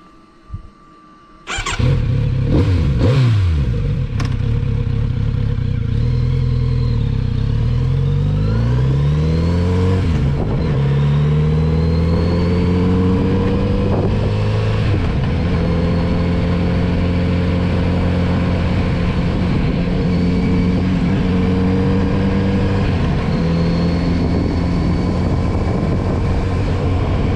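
Kawasaki Z900RS inline-four motorcycle engine coming in loud about two seconds in, revving, then pulling up through the gears with its pitch climbing and dropping back at each shift. After that it runs at a steady cruising note.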